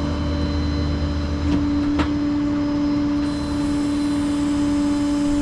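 Tow truck running at idle, a steady hum with a deeper rumble that eases about two seconds in, and a single sharp click at the same moment.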